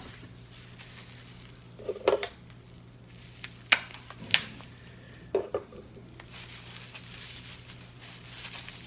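Marble-powder chess pieces knocking against each other or set down on a hard surface: a few separate hard clacks, with some rustling near the end.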